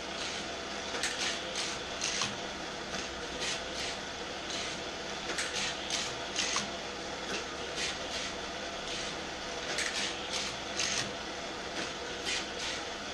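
Battery-powered Hot Wheels 2-Way Super-Charger booster motor running with a steady whirr, while die-cast toy cars clatter through it and along the plastic track in irregular sharp clicks, a few a second.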